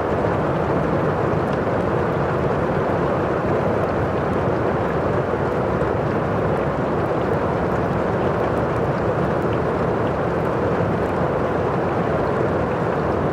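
Thunderstorm ambience: a steady, dense rushing noise of rain and storm, with faint scattered ticks over it.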